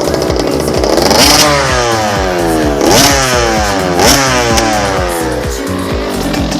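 Small two-stroke motorcycle engine blipped three times: each rev jumps sharply in pitch and then falls back toward idle.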